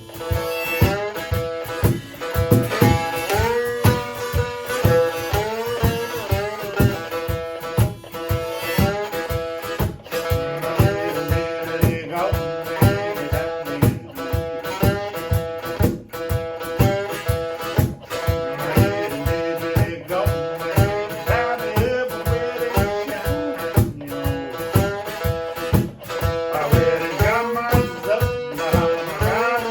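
Instrumental blues played on a one-string guitar and a cajon: plucked notes with sliding pitch bends over a steady cajon beat.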